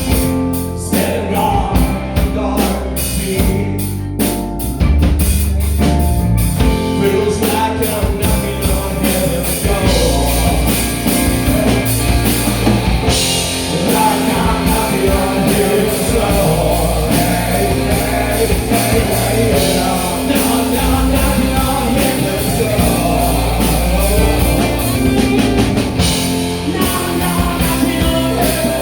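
Rock band playing a cover song, with a drum kit keeping a steady beat under a wavering melodic line.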